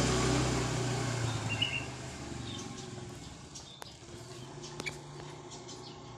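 A motor vehicle passing, its engine and road noise fading away over the first two seconds, then short, faint high bird chirps and a few light clicks.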